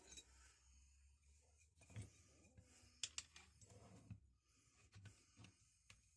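Faint, scattered clicks and light taps of small metal hand tools and wrench parts being handled at a workbench, a few separate ticks a second apart.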